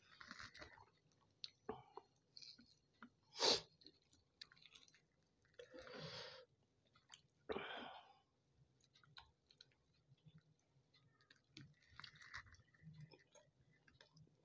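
Close-up chewing and wet mouth sounds of a person eating naan and chicken curry by hand, with small clicks and rustles of the food being torn and handled. One short, louder burst about three and a half seconds in stands out above the rest.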